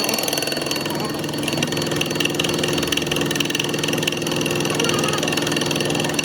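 A workshop machine running steadily with a fast, even rattle.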